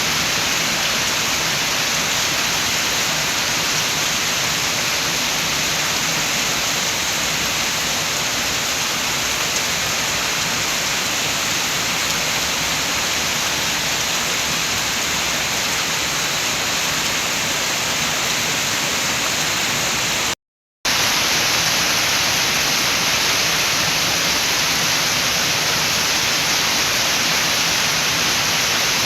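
Steady rain with wind: a dense, even hiss. It cuts out to silence for under half a second about twenty seconds in, then resumes.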